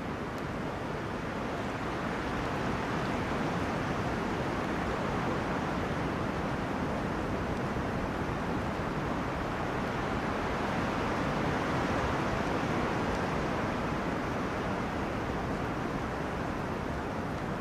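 Wind rushing through forest trees: a steady rush that swells gently toward the middle and eases a little near the end.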